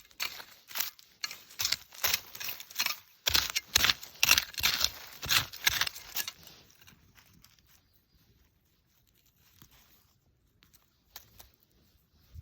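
A quick, irregular run of scraping and rustling strokes for about six seconds, then only a few faint ticks.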